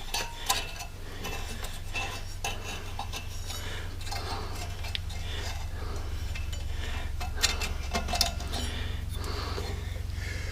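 Metal tool scraping and clicking in a brake caliper's bore, digging out what is left of the old rotted rubber sleeve in short, irregular strokes over a steady low hum.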